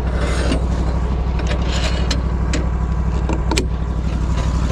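An engine running steadily at idle, with a few sharp metal clicks and clanks in the middle as the log is set and clamped on the sawmill bed.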